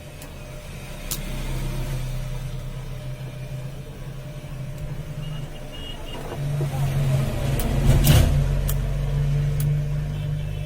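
A road vehicle passing by, growing louder to a peak about eight seconds in and then fading, over a low steady hum, with a few sharp clicks.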